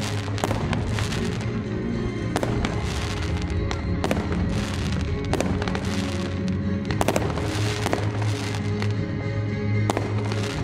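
Fireworks display going off: a continuous, irregular string of sharp bangs and crackles, several a second at times, over music played through a sound system.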